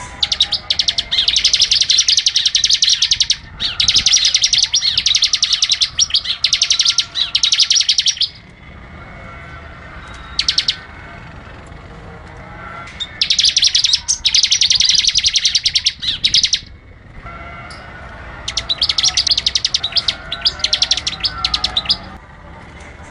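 Bar-winged prinia (ciblek) singing in full voice: three long bursts of rapid, high repeated notes, each lasting several seconds, with quieter bird calls in the gaps between them.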